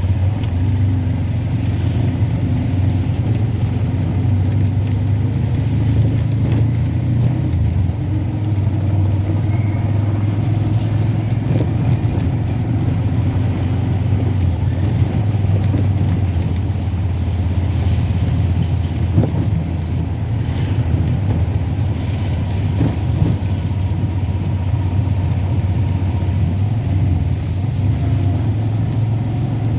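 Vehicle driving on a rain-soaked road: a steady low engine and road rumble, with a couple of faint knocks about two-thirds of the way through.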